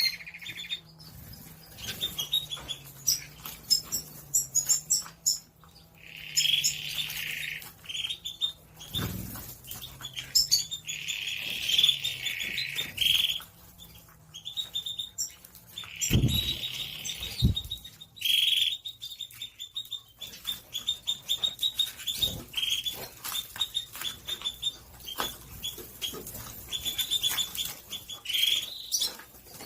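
Belgian canaries chirping and trilling in short repeated calls, with frequent sharp clicks and wing flutters.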